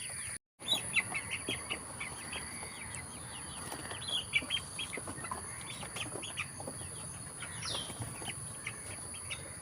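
Many short, sharp bird chirps and calls in quick irregular succession, over a steady high-pitched insect drone. The sound cuts out briefly about half a second in.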